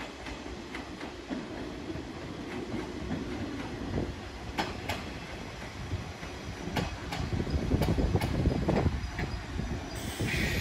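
185 series electric multiple-unit train running past, its rumble slowly growing louder and its wheels clacking over rail joints in spaced pairs. Near the end a louder rushing noise sets in.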